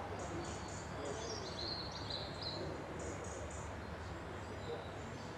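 Songbirds chirping in short high bursts, with a longer trill from about one and a half to two and a half seconds in, over a steady low hum.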